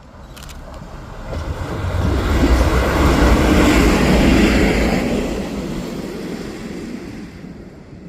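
A Czech Railways diesel train passing by: the rumble and rush of the train swell to a peak in the middle and then fade as it moves away.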